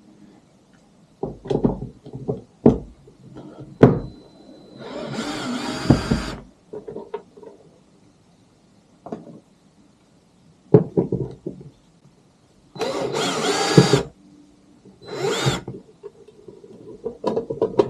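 Cordless drill-driver whirring in three short runs, likely backing out the screws of a kayak's rudder-mount cover, with knocks and clicks of tools and parts being handled between runs.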